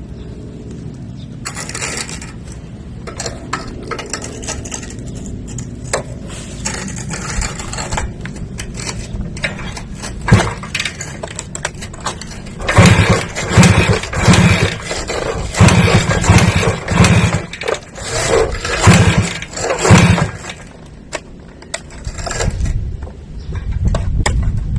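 A motor running steadily with clicks and scraping, then revved in a quick series of loud surges for about eight seconds past the middle.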